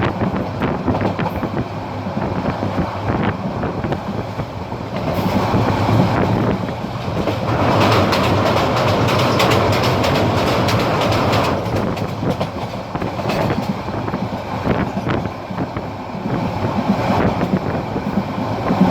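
Passenger train running along the track, its wheels clattering over the rail joints. There is a louder rushing stretch from about seven to twelve seconds in.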